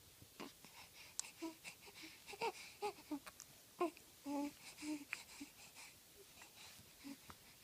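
Baby-like vocal sounds: a string of short, squeaky pitched calls with brief pauses between them, busiest in the middle.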